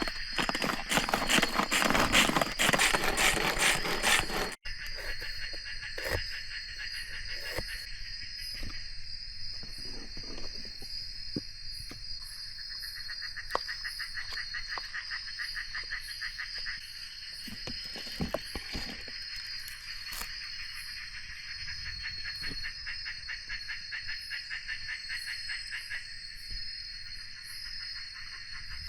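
Forest insect chorus of crickets and cicadas: a steady high-pitched drone with fast pulsing trills, and a few light knocks. For the first four seconds or so a louder rushing noise sits over it, then cuts off abruptly.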